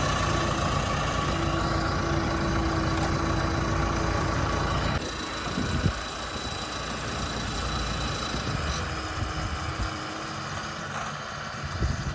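Heavy diesel engine running steadily at low revs, its level dropping about five seconds in, with a short knock soon after and another thump near the end.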